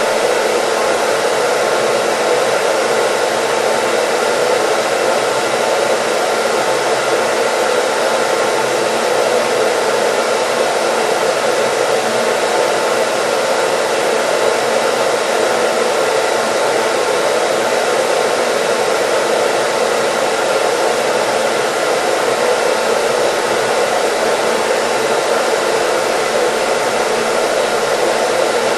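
Hair dryer running steadily: an even, unbroken rush of air with a faint steady motor whine.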